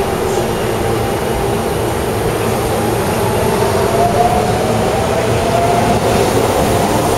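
Electric commuter train pulling out of the station: a steady rumble of wheels on rail, with the motor whine rising in pitch about halfway through as it accelerates.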